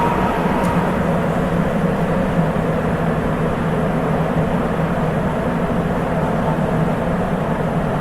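Sapporo Municipal Subway 8000 series train (Hitachi IGBT car) running steadily between stations, heard from inside the car: an even rumble of the rubber-tyred running gear in the tunnel with a steady low hum.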